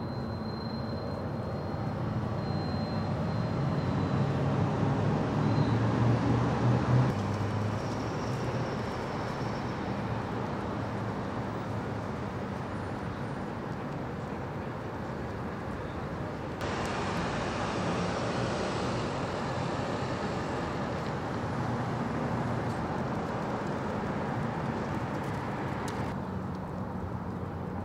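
Steady vehicle noise: an engine running with a low hum, swelling for a few seconds about four to seven seconds in, over a constant hiss of outdoor roadway noise.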